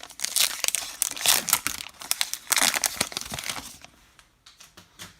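A baseball card pack's wrapper being torn open and crumpled, a dense crinkling crackle that stops about four seconds in, followed by a few faint ticks.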